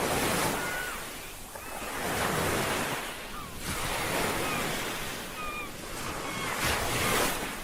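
Ocean surf washing in and drawing back in swells about every two seconds, with faint short chirps scattered over it.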